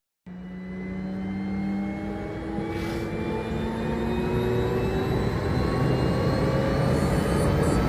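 Small aircraft's engines running up, several tones rising slowly and steadily in pitch as the sound grows louder.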